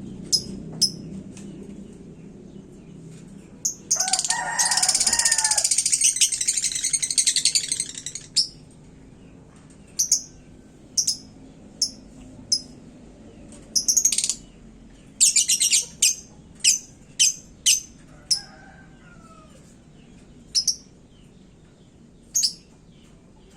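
Lovebird singing in the competition (gantangan) style: short, sharp, high chirps, with one long, dense trill of about four seconds early on, then quick clusters of chirps. A fainter, lower bird call sounds twice, once under the trill and once near the middle.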